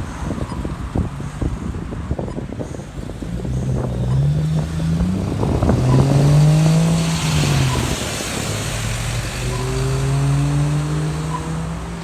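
A road vehicle's engine pulling away and accelerating, its pitch rising, dropping back and rising again as it changes up through the gears, over general traffic noise.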